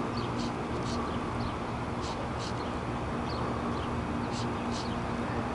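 Small birds chirping: short, high notes about one or two a second, irregularly spaced, over a steady low hum.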